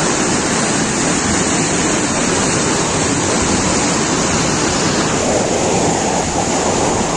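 Floodwater rushing past, a loud, steady noise of fast-moving water.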